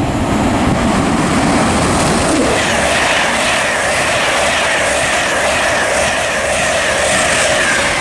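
LNER InterCity 225 express, Class 91 electric locomotive 91104 with Mark 4 coaches, passing through the station at speed. A loud, steady rush of wheels on rail, with a steady high whine joining about two and a half seconds in.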